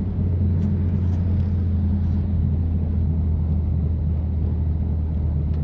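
BMW F80 M3 Competition's twin-turbo inline-six with catless downpipes and an open valved exhaust, cruising at a steady pace: a constant low drone that neither rises nor falls.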